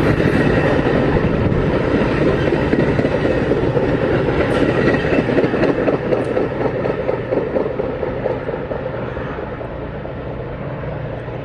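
A train passing on the rails, its wheels rumbling and clattering with a rapid clickety-clack, easing off in the last few seconds as it moves away.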